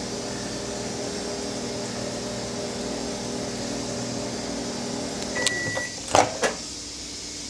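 Microwave oven running with a steady hum, then a single beep about five and a half seconds in as the timer ends and the hum stops. Two sharp clicks follow shortly after.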